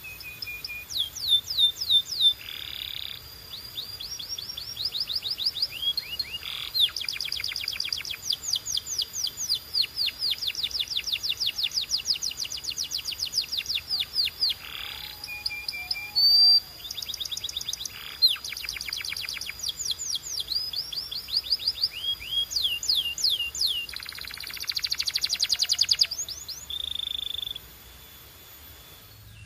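Canary singing: rapid trills of repeated high, down-slurred notes, strung into phrases of a few seconds with short pauses between them.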